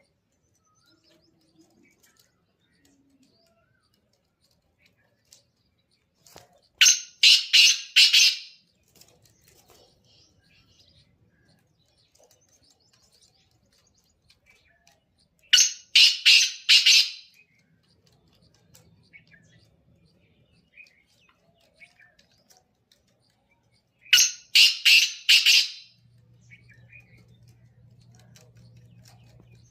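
Black francolin calling: three bouts about eight seconds apart, each a quick run of four or five loud notes lasting about a second and a half. A faint steady low hum comes in near the end.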